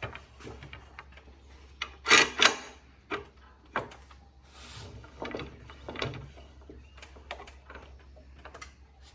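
Clamps being handled and set out on a workbench: irregular knocks and clanks, the loudest two close together about two seconds in, with a short scraping hiss near the middle. A steady low hum runs underneath.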